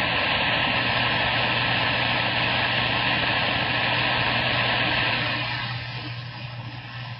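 Loud, steady static hissing from a CB radio's speaker on the 27 MHz band with no station transmitting, with a low steady hum underneath; the hiss thins out about five and a half seconds in.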